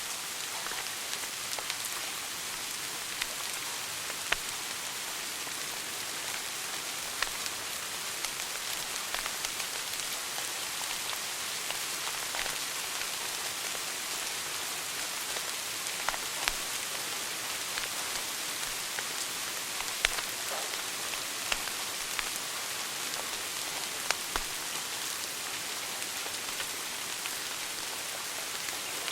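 Wood fire burning in a fireplace: a steady hiss with scattered sharp crackles and pops, a few louder snaps standing out.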